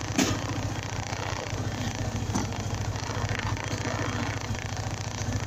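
Honda MegaPro Primus's single-cylinder four-stroke engine running steadily with an even low pulse. Two sharp clicks come through, one just after the start and one a little over two seconds in.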